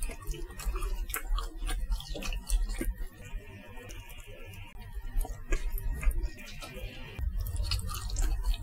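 Close-up chewing of chewy, oily latiao (spicy wheat-gluten strips), with wet, sticky mouth clicks and smacks. Around the middle comes a stretch of soft sticky pulling as a strip is torn apart by hand.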